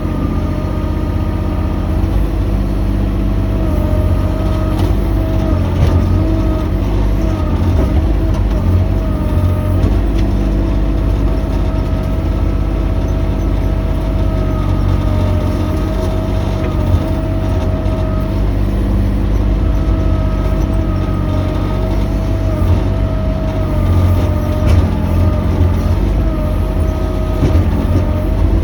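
Mini excavator engine running steadily with a whine that wavers slightly up and down in pitch.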